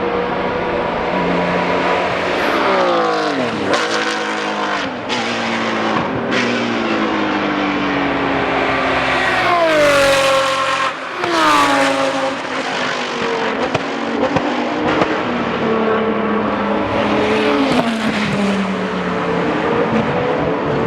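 Several GT race cars passing at speed one after another, each engine note falling in pitch as it goes by; the loudest pass comes about halfway through, with a few short sharp cracks along the way.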